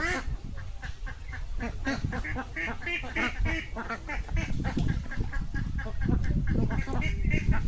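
A flock of ducks quacking, many short calls overlapping without a break. A low rumble grows louder about four seconds in.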